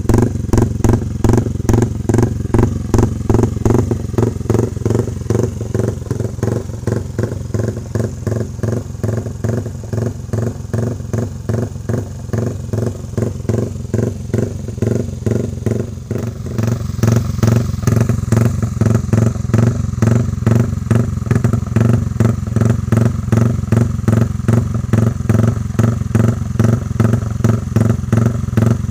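Yamaha MX King's single-cylinder four-stroke engine running at a loping idle through a Pekajaman racing exhaust, with an even, rapid pulse. It gets somewhat quieter after the first several seconds and louder again a little past halfway.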